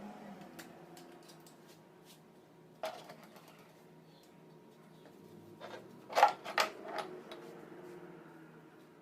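Hand tools knocking and clinking against metal alternator parts during repair work: one sharp knock about three seconds in, then a quick cluster of three a little after six seconds, with fainter ticks between. A low steady hum runs underneath.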